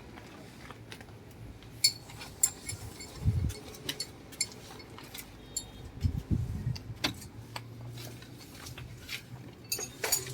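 Scattered metallic clinks and taps of tools and steel parts being handled, some with a short high ring, with two dull low thumps about three and six seconds in.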